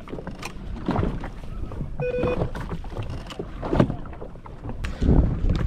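Water splashing and sloshing around a jet ski, in uneven surges, with wind on the microphone. A short electronic beep sounds about two seconds in.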